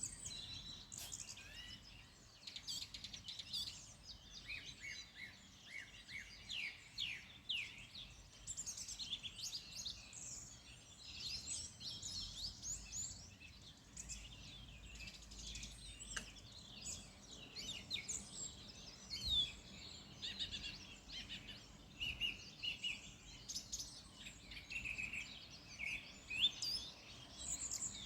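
Several songbirds singing and calling at once: a dense, overlapping chorus of short chirps and trills, over a faint low rumble.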